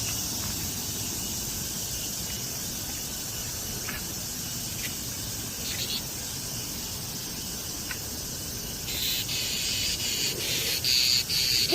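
Cicadas buzzing steadily. About nine seconds in, a louder, pulsing cicada call starts close by.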